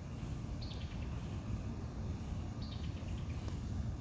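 A bird giving a short falling chirp twice, about two seconds apart, over a steady low rumble.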